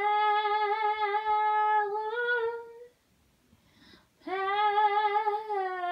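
A woman's solo voice singing unaccompanied, the word "Père" of a French worship refrain. She holds one long steady note, breaks off for a near-silent breath about three seconds in, then holds another long note.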